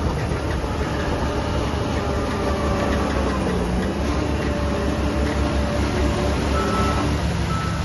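Heavy diesel construction machinery running steadily, a deep engine rumble whose pitch drifts slightly.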